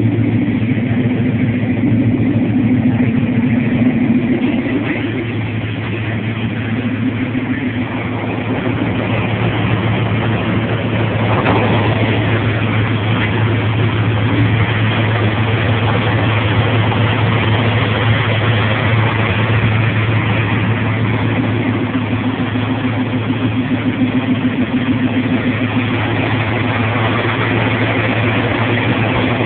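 1993 Dodge Ram pickup's engine running steadily, a constant low hum with no clear revving.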